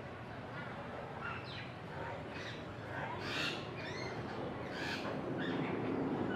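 Several short bird calls, the loudest about halfway through, over a steady low rumble that swells near the end.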